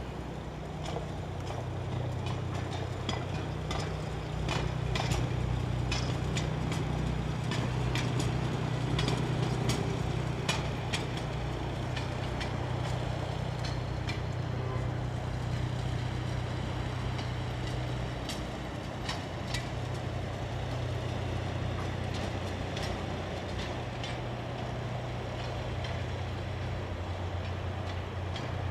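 Diesel engine of a CFR railway maintenance machine running steadily during shunting, a low hum, with scattered metallic clicks and knocks throughout.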